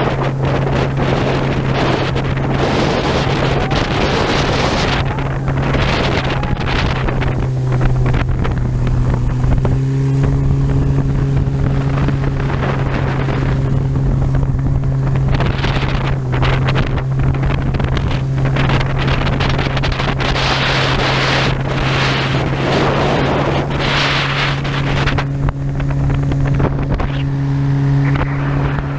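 Motorboat engine running at a steady speed, with water rush and wind buffeting the microphone that swell and fade every few seconds.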